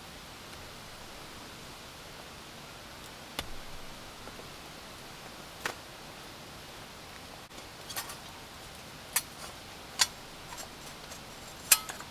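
Steady hiss of rain, with six sharp clicks or taps at irregular intervals, the loudest near the end.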